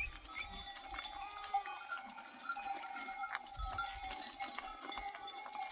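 Bells on a flock of sheep, clinking and ringing continuously as the animals move.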